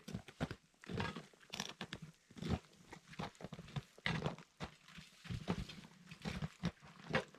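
Boots crunching in snow: footsteps on a steep, snowy descent, irregular, about two crunches a second.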